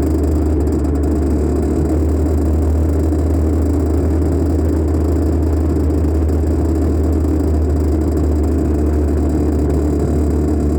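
1984 Honda CR80R two-stroke dirt bike running steadily while being ridden, picked up by a phone mounted on the bike, so the engine comes through as a muffled, even drone under a heavy low rumble.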